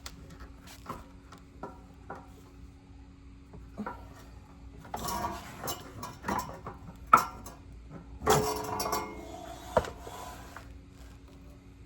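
Metal clinks and knocks of hand tools and exhaust parts being worked under a car. Scattered single knocks, two short spells of clattering, and one sharp knock about seven seconds in, over a faint steady hum.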